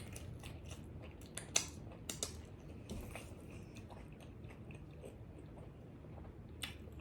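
Close-up chewing of a pizza taco: soft steady chewing broken by a few sharp crunches and mouth clicks, the loudest about a second and a half in.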